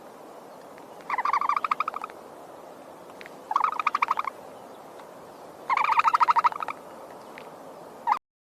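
An owl giving three trilling calls, each about a second of rapid, evenly spaced notes, a second or so apart. The audio cuts out abruptly near the end.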